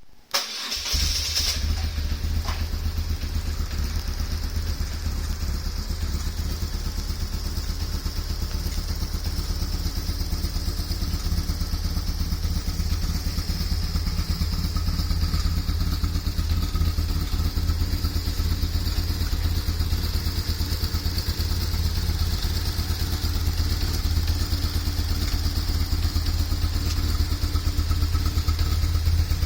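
BMW R1100S's boxer twin fitted with a Staintune muffler, starting about a second in, then idling steadily.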